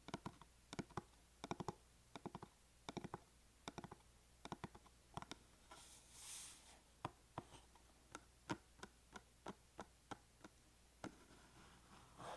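Small hard balls, marbles or beads, clicking against each other. In the first half the clicks come in quick clusters of two to four; after that they come singly, about three a second, each with a short ring.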